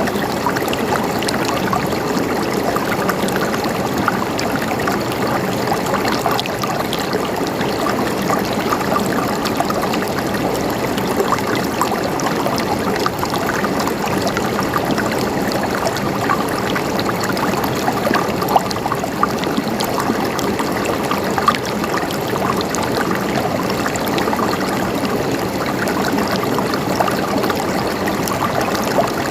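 River water flowing and burbling steadily over rocks, a continuous rushing with small splashes and trickles through it.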